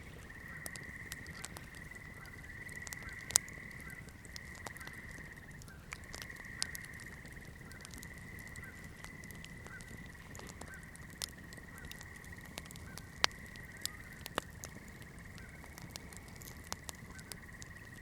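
Wood campfire crackling, with scattered sharp pops, the loudest about three and thirteen seconds in, over a steady high-pitched chorus in the background.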